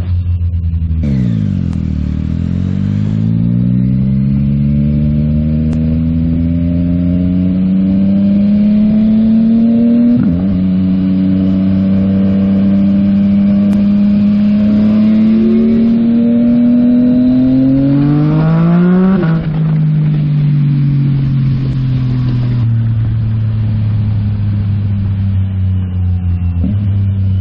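Yamaha MT-09 SP's 890 cc inline-three on a Yoshimura AT2 full exhaust, ridden under acceleration. It pulls up through the revs, drops briefly for a shift about ten seconds in and pulls again. About nineteen seconds in the revs fall away sharply, then wind down slowly as the bike slows.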